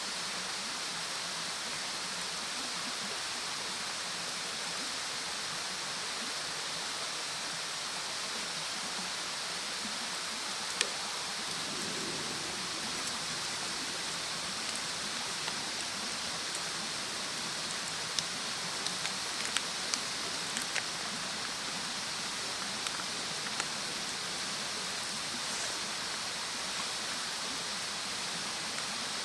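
Wood fire burning, with scattered sharp crackles and pops, a cluster of them about two-thirds of the way through, over a steady hiss.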